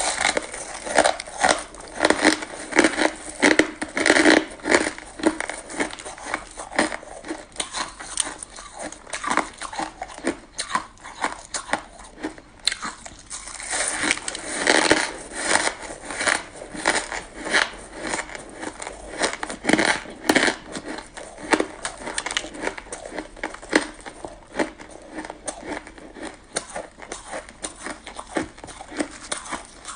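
Close-miked biting and chewing of frozen purple-flavoured shaved ice, a dense run of irregular crisp crunches.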